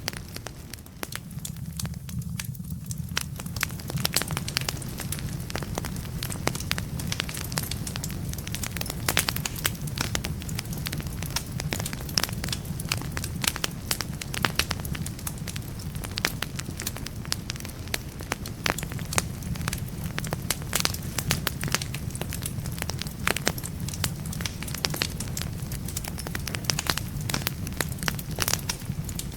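Firewood burning in a fireplace, crackling and popping in a dense run of sharp snaps over a steady low rumble. The pops thin out briefly about a second in, then pick up again.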